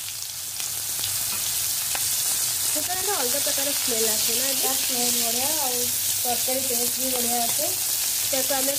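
Sliced onions sizzling in hot oil in an aluminium kadai, stirred and scraped with a spatula. A voice comes in faintly behind the sizzle from about three seconds in.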